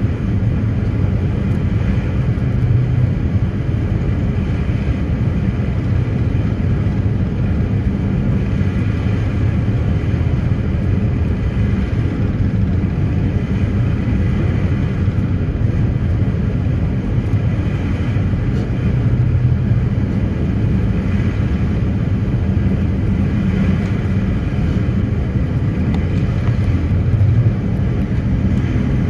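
Passenger ferry's engines running steadily, a constant low drone with no pauses or changes.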